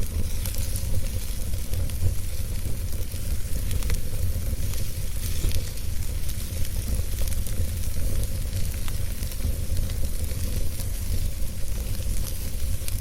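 Wood fire burning, with a steady hiss and many small crackles and pops over a low rumble.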